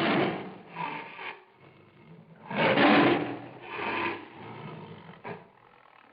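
An animal's rasping growls: a series of breathy, harsh bursts about a second apart, loudest at the start and again about three seconds in, fading toward the end.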